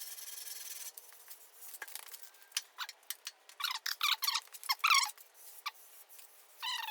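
Sandpaper rubbed by hand over hardened body filler: about a second of steady rasping, then short back-and-forth strokes, several of them squeaking.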